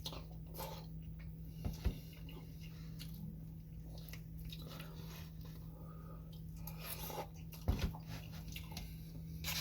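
Close mouth sounds of someone chewing a fried chicken sandwich: soft wet smacks and clicks, with two louder sharp smacks, one about two seconds in and one near eight seconds. The breading is soft rather than crispy. A steady low hum runs underneath.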